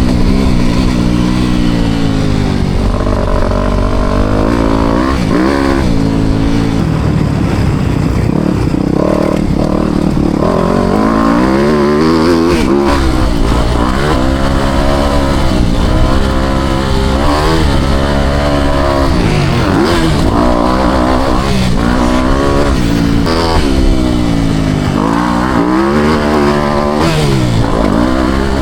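Four-stroke motocross bike engine being ridden hard, its pitch rising and falling over and over as the throttle is opened and shut through the gears.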